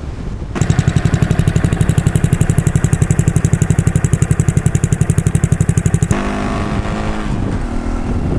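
Motorcycle engine running close by with a fast, even pulsing, about a dozen beats a second; about six seconds in it changes to a smoother sound whose pitch falls.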